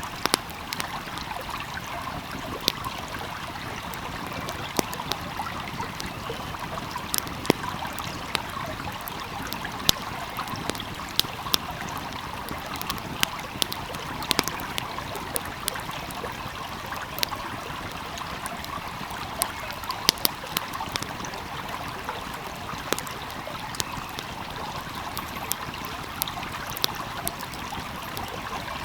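A flowing stream babbling steadily, with a wood fire crackling over it in sharp, irregular pops.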